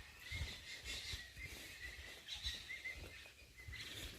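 Outdoor ambience with small birds chirping briefly several times over a steady high hiss, with scattered low thuds close to the microphone.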